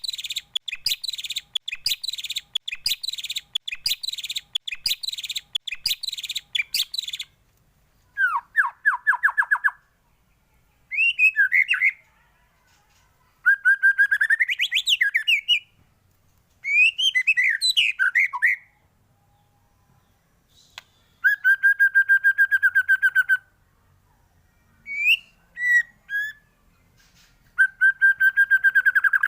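White-rumped shama singing a varied song. It opens with about seven seconds of rapid, scratchy chattering notes, then moves to a series of separate phrases about two seconds long, made of whistled up-and-down glides and fast trills with short pauses between them.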